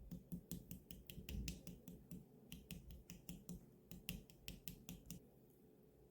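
Glitter slime being pressed and squeezed, giving a quick run of sharp clicking pops, about four a second, that stop about five seconds in.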